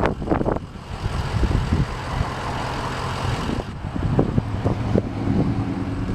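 Ford 6.0-liter Powerstroke turbo diesel V8 idling steadily with a low drone.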